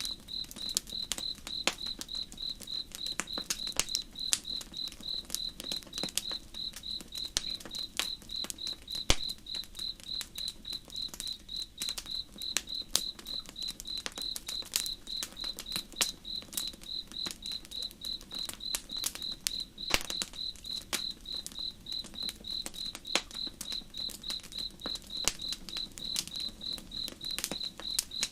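Campfire crackling with irregular sharp pops and snaps, over a cricket chirping in a steady, even rhythm.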